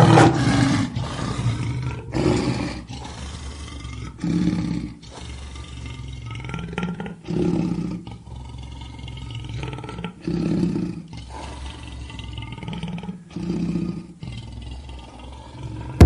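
A big cat roaring: a loud first roar, then a series of shorter, low calls every two to three seconds.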